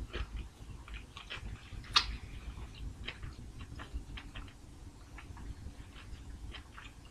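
Close-up chewing of a peanut butter and dill pickle sandwich and a hamburger, with soft wet mouth smacks and clicks scattered throughout. One sharper click comes about two seconds in.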